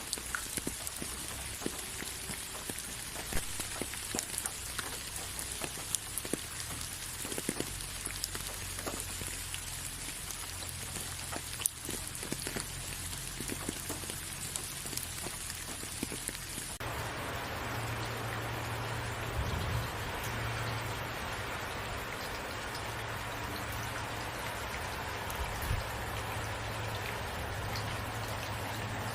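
Steady rain, with many separate drops ticking on a surface. About seventeen seconds in, the sound changes abruptly to a denser, even rush of rain, fuller and lower with fewer distinct drops.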